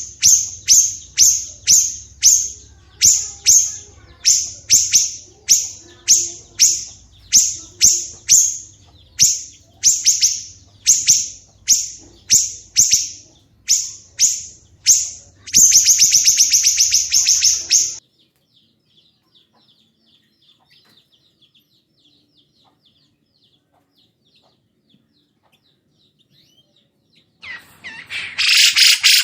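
Songbird singing: a sharp, high, downward-sweeping note repeated about twice a second, breaking into a fast, loud trill. It then goes almost silent for about nine seconds before a loud burst of song near the end.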